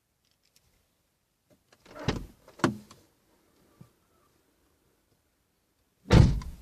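Car door and cabin handling noises with the engine off: two short thuds about half a second apart, a faint click, then a heavier thud near the end.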